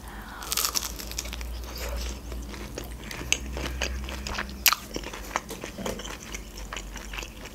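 Biting into and chewing a breaded, deep-fried shrimp close to the microphone: irregular crisp crunches of the fried coating, a few sharper ones standing out in the middle.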